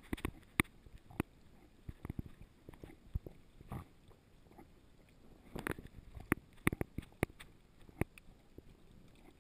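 Irregular sharp clicks, knocks and scuffs from a dog moving with a GoPro strapped to its harness, the camera and harness jostling. The clicks come in a busier cluster a little past the middle.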